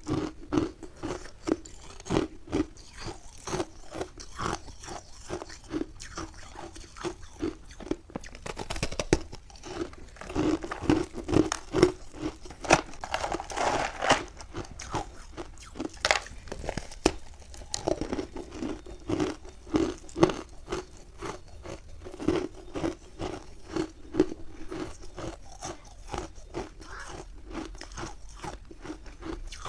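Close-up crunching of refrozen milk-and-matcha ice: repeated bites cracking through the ice, then rapid chewing of the fragments. A louder, denser spell of crunching comes about halfway through.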